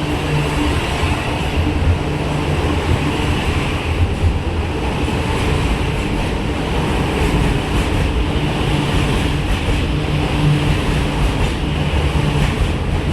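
MTR Kwun Tong line Q-Train electric metro train pulling out of an underground station. The wheels and carriages make a steady loud rumble, with a low steady hum that fades for a few seconds midway and then returns.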